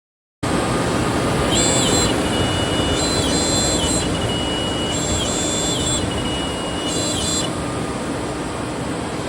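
CNC router running: a loud steady rushing noise with high whines that step up and down in pitch and start and stop several times as the machine's axes move. It starts abruptly about half a second in.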